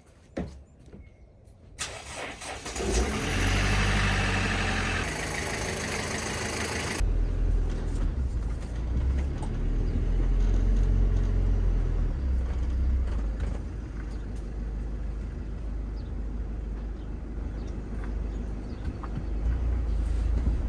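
A van's engine starting and revving, then a steady low rumble of the van driving.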